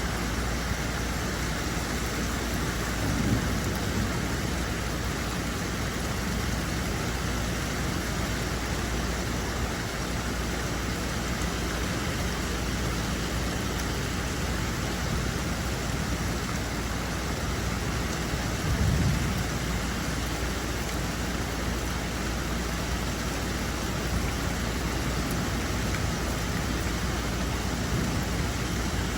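Steady rain falling, with two brief low rumbles, one a few seconds in and a stronger one a little past the middle.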